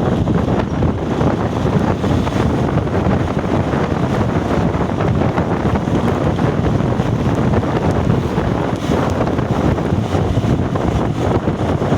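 Wind buffeting the microphone: a loud, steady, low rushing noise with no clear tones.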